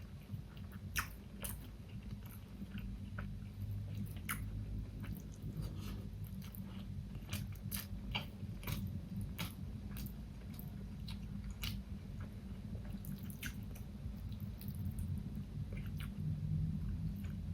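Close-miked chewing and biting of food, with irregular sharp crunchy clicks, over a steady low hum.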